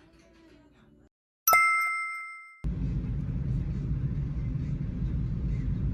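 A single bell-like ding about a second and a half in, ringing and dying away over about a second. Then steady low road rumble of a moving car, heard inside the cabin.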